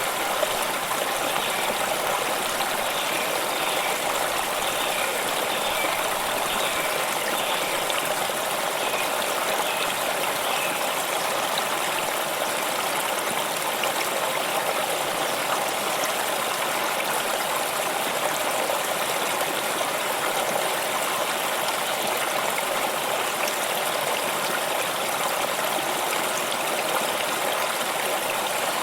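Water stream running steadily, a continuous babbling rush over stones.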